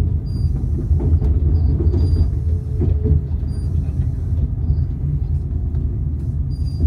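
Steady low rumble heard from inside a moving passenger train as its wheels run along the track, with a few faint knocks from the running gear.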